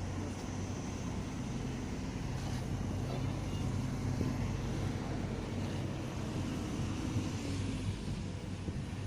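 A vehicle engine running steadily with a low, even hum, over a constant rush of noise.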